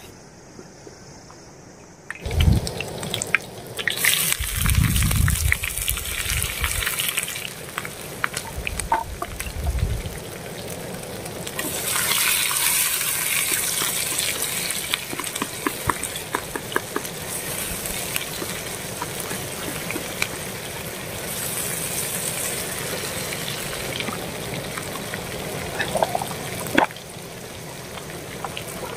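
Sliced onions going into hot oil in a pan on a portable gas-cylinder stove: a sizzle starts suddenly about two seconds in and carries on, swelling and easing, with a few low bumps as they go in and a spoon clicking against the pan as they are stirred.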